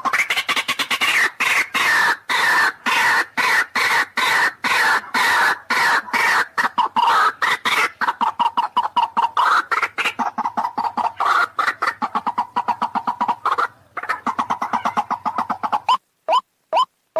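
White-breasted waterhen (ruak-ruak) calling: a fast, dense run of repeated notes, then near the end separate upward-sliding notes about three a second.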